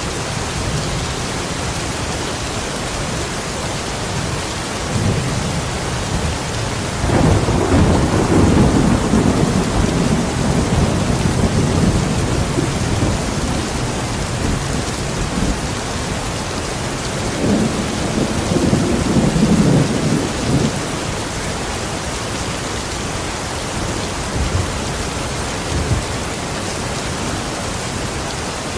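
Steady heavy rain with thunder rumbling twice, once about a quarter of the way in for several seconds and again a little past halfway.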